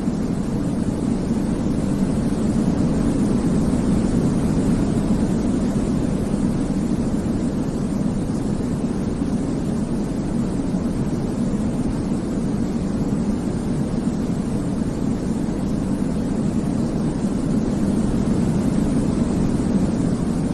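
Baby sleep white noise: a steady, deep, rumbling hiss with most of its weight in the bass, gently swelling and easing.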